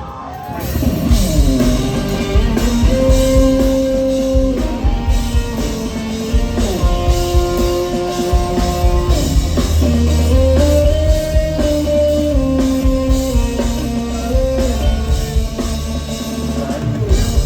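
Rock band playing an instrumental passage live: a guitar melody of long held notes over bass and a drum kit.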